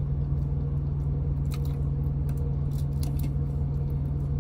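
Steady low hum and rumble of an idling truck engine, with a few soft clicks and squishes of utensils working through the freshly cooked food.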